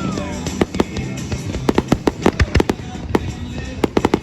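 Fireworks going off: a rapid, irregular string of sharp bangs and pops, several a second, thickest about two seconds in.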